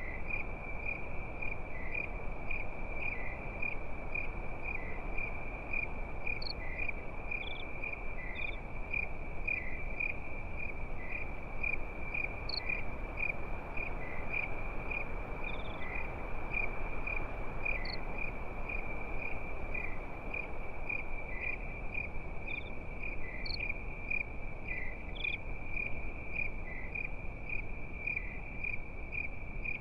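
Crickets chirping steadily in a rapid, even rhythm, with an occasional higher chirp, over a low, steady background hiss.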